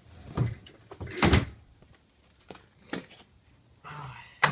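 A removed part being fitted back on by hand: a series of knocks and clunks of parts being handled and seated, the loudest about a second in and a sharp one at the end.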